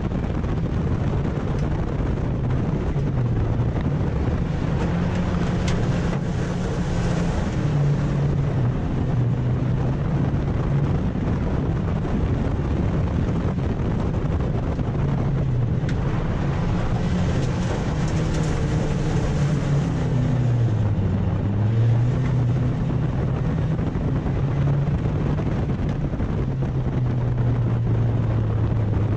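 Autograss junior saloon car's engine heard from inside the cockpit, running hard around the track, its pitch rising and falling as the driver accelerates and lifts for the corners.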